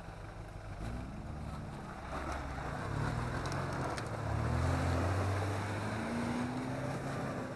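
Off-road 4x4's engine pulling through a pond, its pitch rising and falling with the throttle and loudest about halfway through, over a wash of water being pushed aside.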